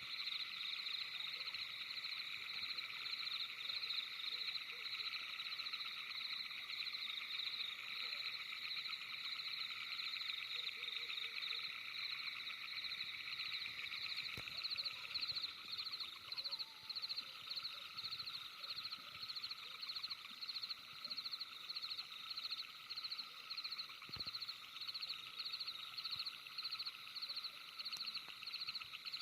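Steady night chorus of frogs trilling in several pitch bands at once, with a regular pulsing rhythm coming in during the second half.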